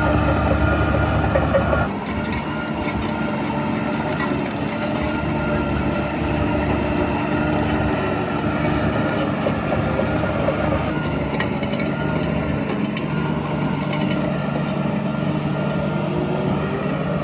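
Heavy construction machinery's diesel engine running steadily, a little louder for the first two seconds, then easing off.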